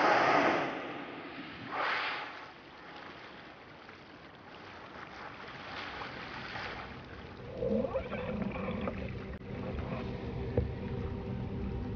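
Bowhead whale exhaling at the surface of an ice lead: a loud whoosh of breath from the blowhole at the start and another about two seconds in, with water washing around it. From about seven and a half seconds in, a low underwater rumble with sustained wavering tones and a short rising glide.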